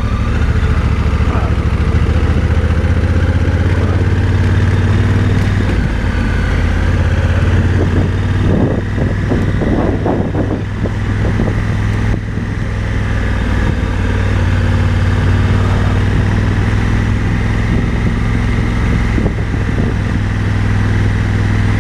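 Motorcycle engine running steadily under way, with a rougher, busier stretch around the middle.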